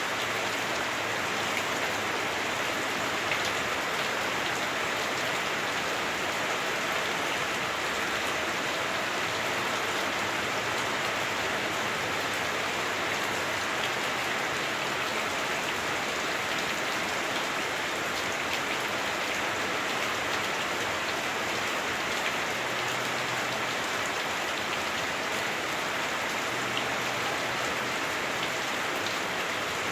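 Heavy rain heard from inside a house, falling on the roof as a steady hiss with scattered drop ticks.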